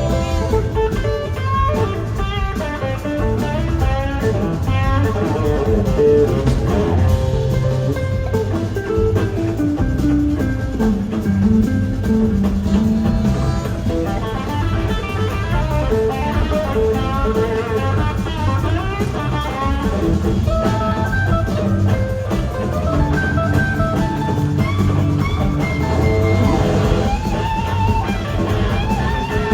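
Live blues-rock band playing, an electric guitar soloing over drums and bass, with a run of falling notes about a third of the way through.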